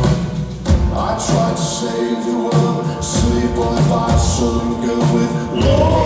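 A live rock band playing an instrumental passage of the song, with sustained chords over bass and drums.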